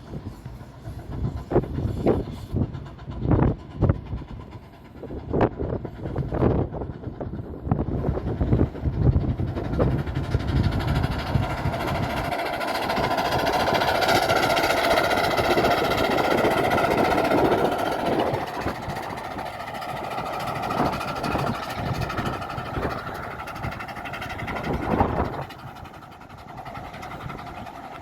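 Light railway locomotive No. 4 Norfolk Pioneer running along the track with its train. There is a series of separate beats for the first eight seconds or so, then a louder steady rush that builds through the middle and fades after about eighteen seconds, with one last beat near the end.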